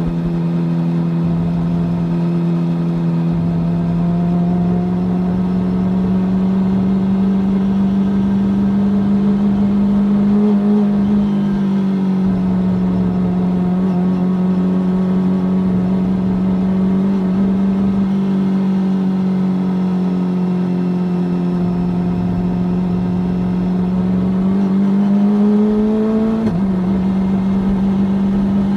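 2020 Kawasaki Ninja ZX-25R's 249 cc inline-four running through an Akrapovič racing-line full-carbon exhaust, holding a steady mid-range pitch while the bike rides along. Near the end the pitch climbs briefly, then drops suddenly.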